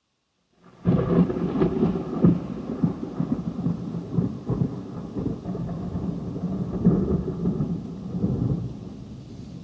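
Thunder: starts suddenly just under a second in and rolls on in a deep rumble with repeated loud peaks, easing off near the end.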